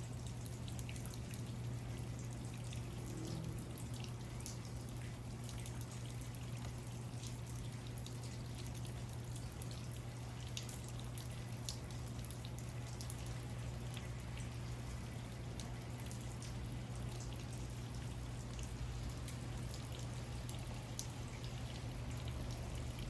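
Quiet room tone: a steady low hum and hiss with faint, scattered ticks.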